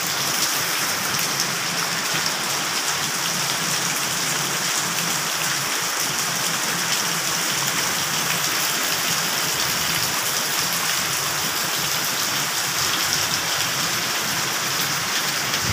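Heavy rain pouring steadily onto wet pavement and puddles: a dense, even hiss.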